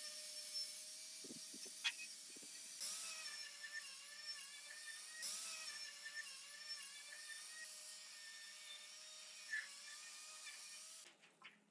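A small high-speed motor whining steadily and faintly, its pitch wavering slightly, over a light hiss with a few light clicks; it dies away near the end.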